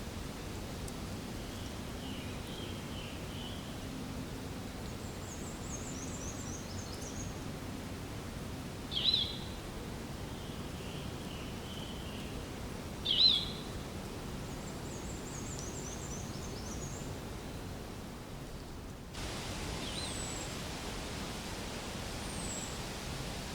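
Steady outdoor background hiss with small birds chirping in short high trills, and two loud, short, sharp high calls about nine and thirteen seconds in. The background changes abruptly after about nineteen seconds, with a few brief falling chirps.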